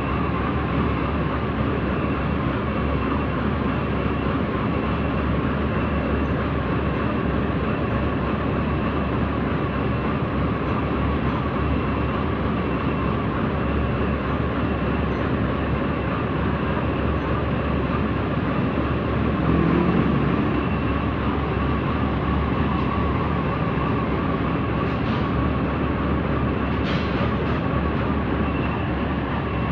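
Heavy diesel machinery running steadily, with a wavering high whine over the engine noise. There is a short louder swell about twenty seconds in and a couple of faint clicks near the end.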